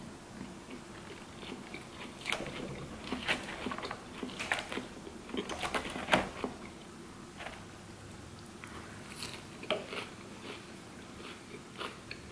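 Crunchy chewing of a mouthful of fresh green salad, crisp crunches coming in irregular clusters every second or so.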